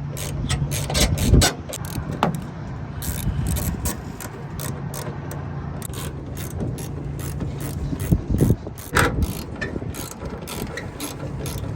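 Rapid, irregular mechanical clicking of hand tools being handled, over a steady low hum, with a few louder knocks about a second and a half in and again near nine seconds.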